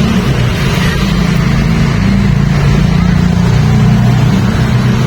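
Motor vehicle engine running steadily with a low hum, over a constant haze of road noise.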